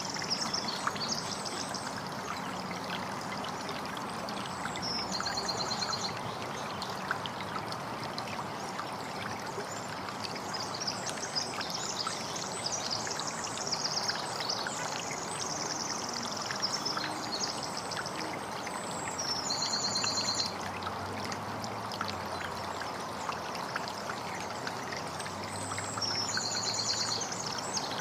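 Steady trickle of running water with birds singing in short, rapid trills that come back several times, each lasting about a second.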